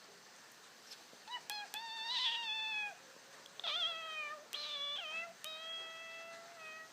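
A cat meowing over and over: about five high meows, a short one and then several drawn out for a second or so, each fairly level in pitch.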